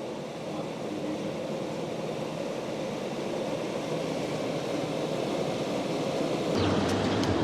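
A vehicle on the move, a steady rumble of road and engine noise that grows gradually louder, with a lower hum and a few clicks coming in near the end.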